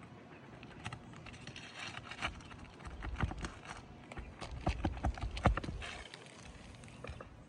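Irregular knocking, clicking and scraping as asphalt shingles and their nails are worked loose on a roof. The knocks come thickest and loudest between about three and six seconds in.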